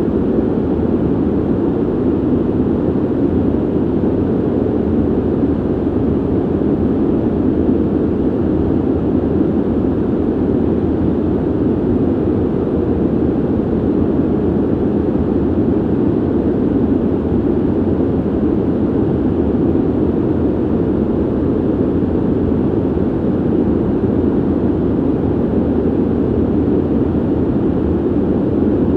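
Steady ventilation noise: an even, dull rush of air with no tones, clicks or changes, mostly low and with little hiss on top.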